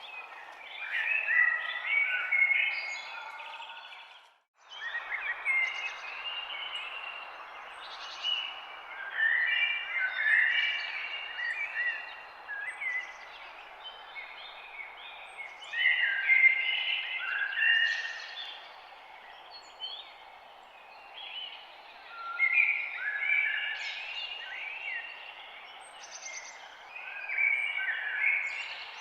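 Several birds chirping and singing in bursts of a few seconds, over a steady background hiss. Everything cuts out for a split second about four seconds in.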